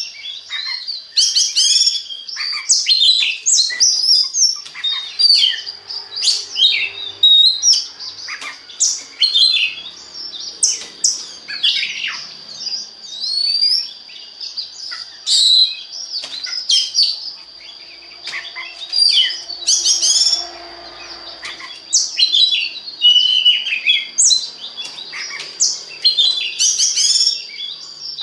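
Oriental magpie-robin singing a rapid, varied song of whistles, chirps and sharp notes in dense bursts with brief pauses. A steady high-pitched tone runs underneath.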